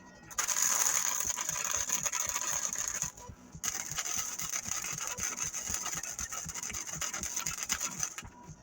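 Electric arc welding on the steel truck frame: a crackling, frying hiss that switches on and off abruptly, in two runs of about three and four and a half seconds with a short break between them.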